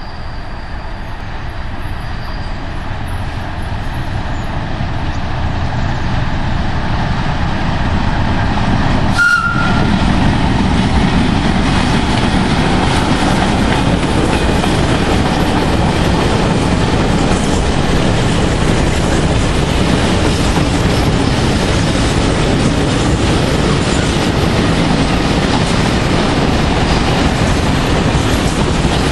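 Freight train of tank wagons passing close by. The rumble builds over the first ten seconds as the locomotive comes up, then holds steady as the wagons roll past with the rattle and clatter of their wheels on the rails. There is a brief high tone about nine seconds in.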